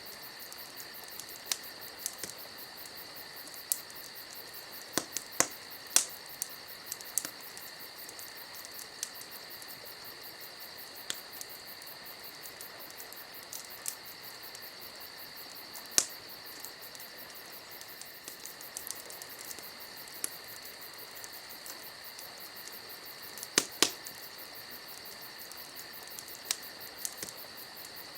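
Crickets chirping in a steady high trill, with a campfire crackling and giving off irregular sharp pops, the loudest three of them about 6, 16 and 24 seconds in.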